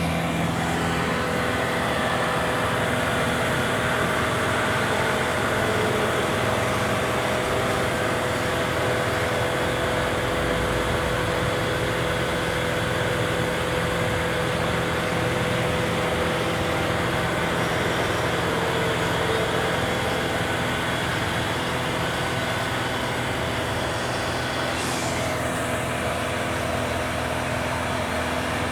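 Lift's engine running steadily with a low hum, as the lift raises its platform toward the work height.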